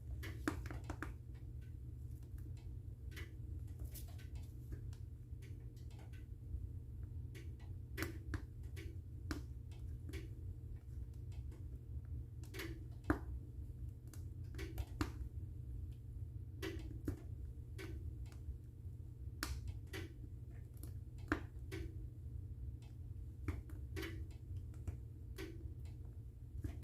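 Wood fire crackling in a fireplace: irregular sharp pops and snaps, a few a second and uneven in loudness, over a steady low hum.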